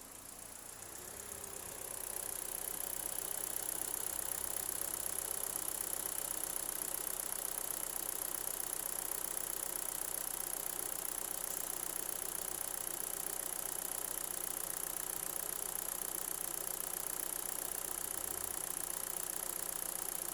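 2018 Hyundai Elantra SEL's 2.0-litre four-cylinder engine idling steadily, growing louder over the first two seconds and then holding even.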